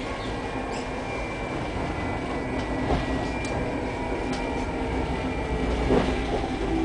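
A tram running on its rails, heard from inside the car: a steady rumble of wheels and running gear with a faint steady hum. There are two louder knocks, about three and six seconds in.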